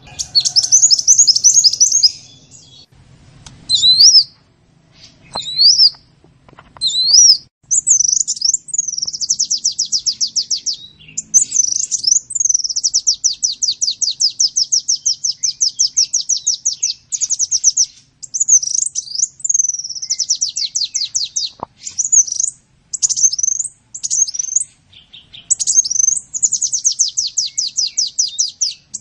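Sunbird song: high-pitched, rapid trills of quickly repeated notes, some lasting several seconds, broken up by short separate chirps and brief pauses.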